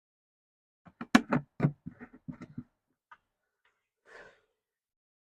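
Close handling clicks and knocks from working in the engine bay: a quick run of sharp taps for about a second and a half, then a single tick and a short rustle.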